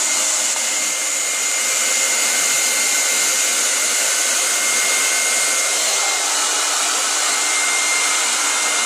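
Hand-held hair dryer blowing steadily, an even rush of air with a thin steady whine in it.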